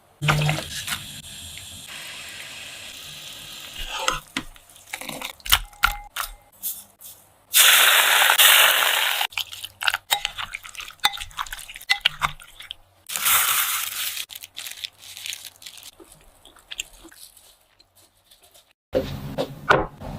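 Kitchen food-preparation sounds: scattered clicks and knocks of utensils, with two loud hissing bursts of about a second and a half each, the first the loudest.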